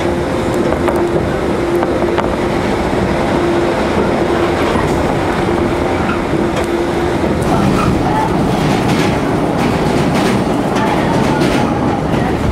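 Running noise inside a JR 115 series electric train at speed: a steady rumble of wheels on rail. A steady tone over it cuts out about seven seconds in, and scattered clicks come in the second half.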